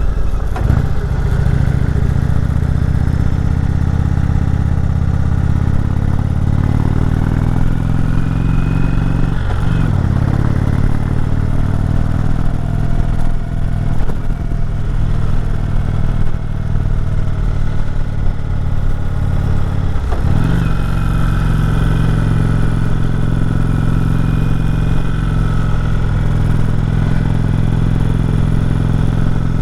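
Indian Chieftain Dark Horse's air-cooled V-twin engine running steadily under load while climbing in low gear. The engine note dips briefly and picks back up twice, about ten seconds in and about twenty seconds in.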